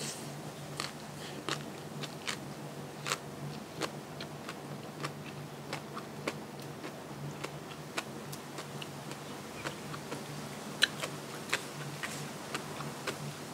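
Close-miked chewing and biting of food: irregular crisp crunches and mouth clicks, a few a second, over a steady low hum.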